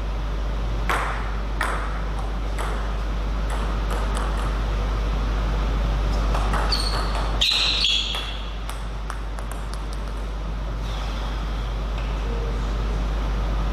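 Table tennis ball clicking against bats and the table in a string of sharp, irregular hits. There is a brief high squeak about seven seconds in and a steady low hum underneath.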